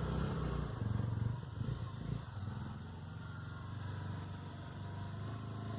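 Dirt bike engine running at low revs, a steady low rumble that is louder for the first two seconds, then settles.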